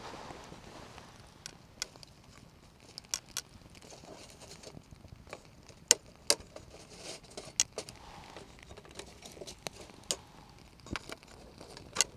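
Wood campfire crackling, with scattered sharp pops at irregular intervals over a low hiss of burning.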